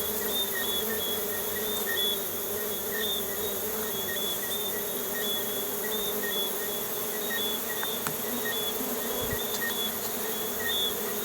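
Honeybee colony buzzing steadily, a mass of bees humming around a newly hived box. A short high chirp repeats about twice a second over the hum.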